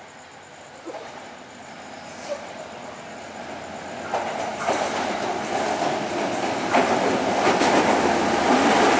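Diesel express train led by a Class M6 locomotive approaching and drawing past, growing steadily louder. From about four seconds in, the wheels clatter over the rail joints in repeated sharp knocks.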